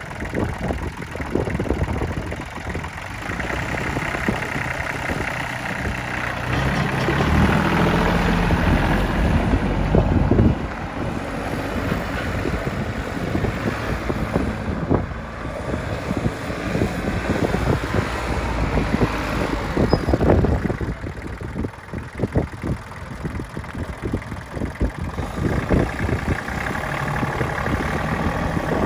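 New Holland 1725 compact tractor's diesel engine running, picking up speed and getting louder for a few seconds about a quarter of the way through.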